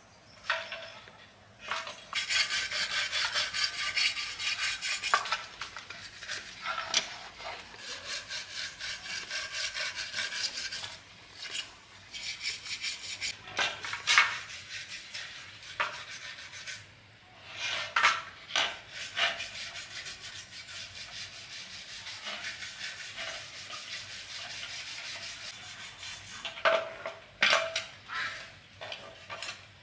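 Rapid back-and-forth scraping strokes, as of a brush, file or abrasive worked over a part, in runs of several seconds. A few sharp knocks fall in the short breaks between runs.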